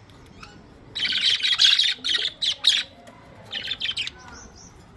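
Budgerigars chirping and chattering in high bursts: a long run starting about a second in, then several short chirps, and another burst near the end.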